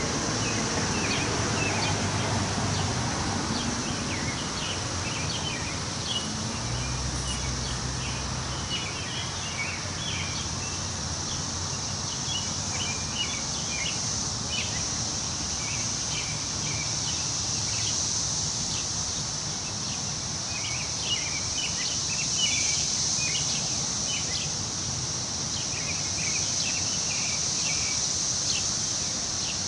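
Woodland ambience: a steady high insect drone with many short chirps scattered through it, over a soft rush of wind in the trees. A low rumble sits underneath for the first several seconds, then fades.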